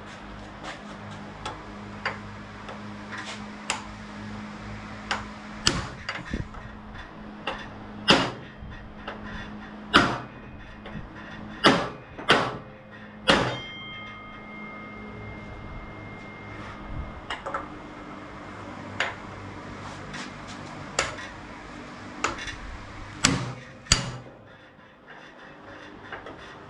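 Hammer blows on metal, a dozen or more irregular strikes, a few leaving a brief ring, as a stuck part is beaten loose on a go-kart.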